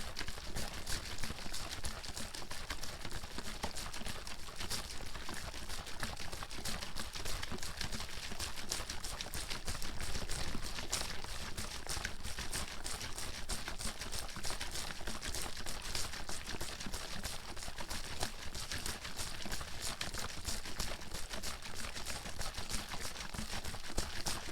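Water bottle with water in it being shaken hard and continuously: fast, unbroken sloshing and splashing against the walls with rapid clicks and rattles.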